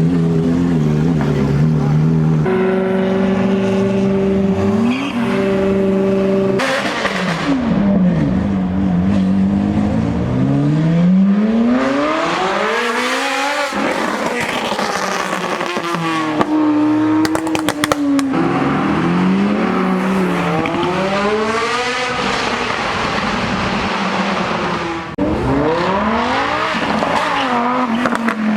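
Several high-performance sports-car engines idle steadily, then rev and accelerate away one after another. Each engine note climbs and drops back repeatedly as the cars pull off and shift up.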